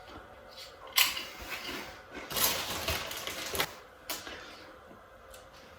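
Potato chips crunching as they are bitten and chewed: a sharp crunch about a second in, a dense stretch of crunching in the middle, and a last crack just after four seconds.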